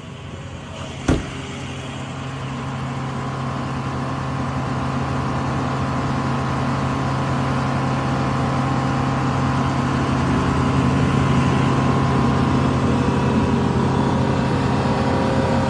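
A steady engine drone with several held tones, growing gradually louder, with one sharp click about a second in.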